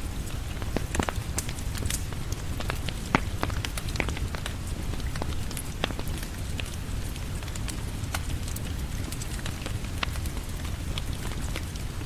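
Steady rain with a wood fire crackling over it: irregular sharp pops and snaps throughout, one louder pop about three seconds in.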